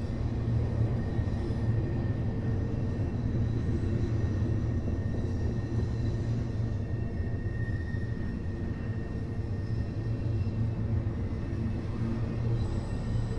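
Double-stack intermodal freight train rolling past: a steady rumble of the well cars on the rails, with a faint high whine running through it.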